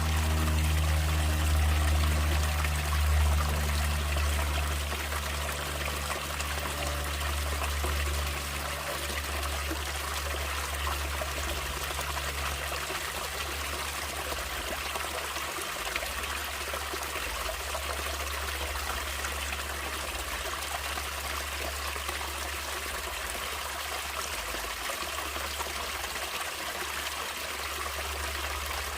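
Running water of a stream flowing and trickling steadily. Low music tones fade out in the first few seconds.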